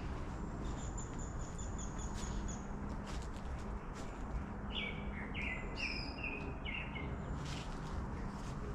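Small songbirds calling: a thin, high, rapid trill in the first few seconds, then a run of about five short, falling chirps a little past the middle. Under it is a steady low background hum.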